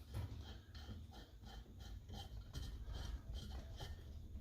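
Quiet, irregular light clicks and taps, about three a second, from small metal parts of a Coleman 530 pocket stove being handled and fitted during reassembly.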